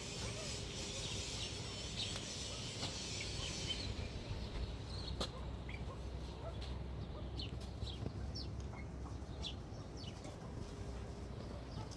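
Birds chirping: a dense high chatter for the first few seconds gives way to scattered short chirps, over a steady low background rumble.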